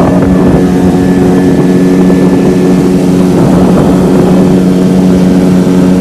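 Speedboat engine running loud and even at a steady pitch, with a rough low rumble underneath.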